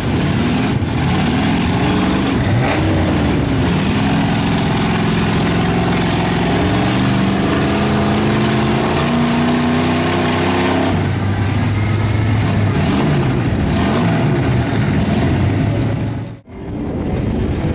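A big mud truck's engine revving hard, its pitch rising and falling again and again for about eleven seconds, then holding a steadier, lower drone. The sound cuts out for an instant near the end.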